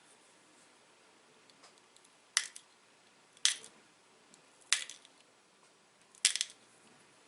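Pressure flaking a small dacite arrowhead: four sharp clicks, a second or so apart, as small flakes snap off the stone's edge.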